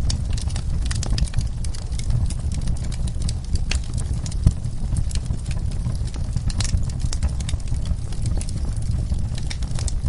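Wood fire burning in a fireplace, crackling with irregular sharp pops over a steady low rumble of the flames; one louder pop about four and a half seconds in.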